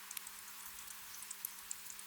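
Gentle rain ambience: a soft, steady hiss with scattered light drip ticks.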